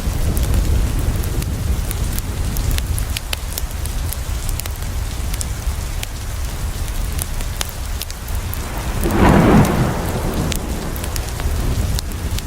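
Steady rain falling on a window, with a low rumble, scattered sharp crackles from a wood fire, and a brief louder swell of noise about nine seconds in.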